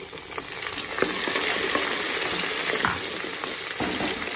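Chopped green chillies sizzling as they drop into hot mustard oil with garlic, ginger and whole spices in an aluminium pressure cooker, the sizzle growing louder over the first second. A wooden spoon stirs through the pan, with a few light clicks.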